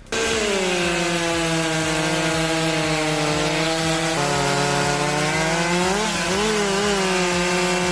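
A Stihl MS 661 two-stroke chainsaw held at high revs while cutting wood, starting suddenly. Its engine pitch drops abruptly about four seconds in and wavers briefly near six seconds as the load changes.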